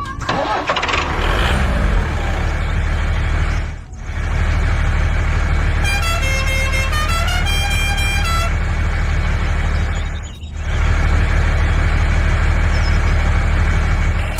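Truck engine running with a steady low rumble that cuts out briefly twice. A horn sounds a quick run of changing notes about six seconds in.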